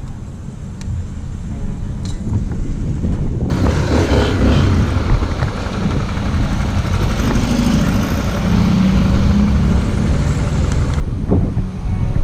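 A motor vehicle engine running. About three and a half seconds in, a loud steady hiss joins it and then cuts off suddenly near the end.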